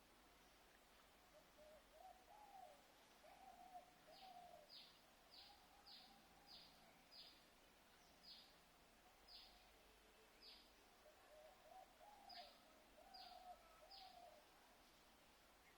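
Faint birdsong: a series of about a dozen short, high notes, each falling in pitch, repeated every half second or so, over lower wavering calls.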